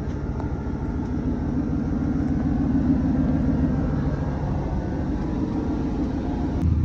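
Truck engine running steadily with a low rumble. It swells slightly in the middle, and a deeper steady hum joins near the end.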